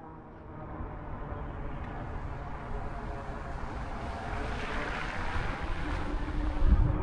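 Wind rushing over the microphone on a moving e-bike, swelling louder through the stretch, with heavy low buffeting thumps near the end.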